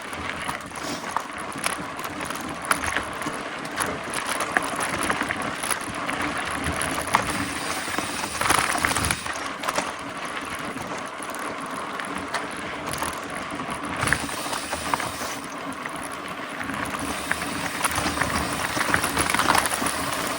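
Mountain bike in motion: the freehub ratchet clicking and the drivetrain rattling over a steady rush of tyre and wind noise.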